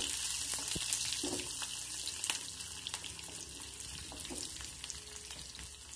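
Shallots, garlic and curry leaves frying in hot oil with cumin and mustard seeds in a steel kadai: a steady sizzle with scattered pops and clicks, while a wooden spatula stirs and scrapes the pan. The sizzle eases slightly toward the end.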